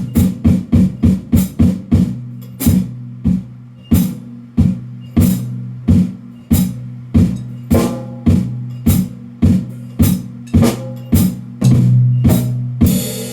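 Drums struck in a steady pattern of single strokes over a low ringing drum tone. The strokes come quickly at first, about five a second, then slow to one every half second or so. A cymbal crash comes right at the end.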